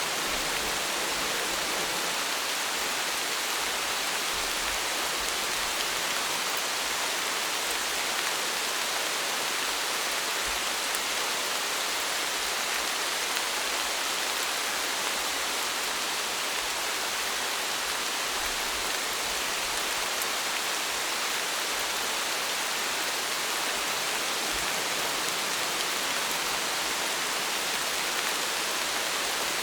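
Steady rain falling, an even hiss with no pauses or thunder.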